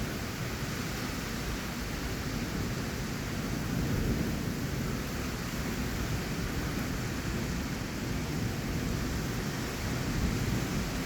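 Heavy rain falling steadily with strong wind, a continuous hiss and a deep rumble of wind buffeting the microphone.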